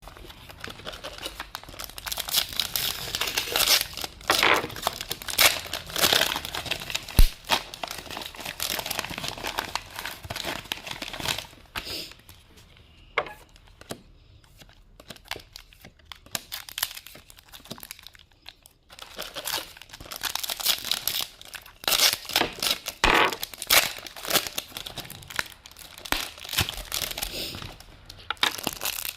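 Vintage Pokémon booster pack wrapper crinkling and tearing as it is handled and opened, in busy bursts with a quieter stretch in the middle.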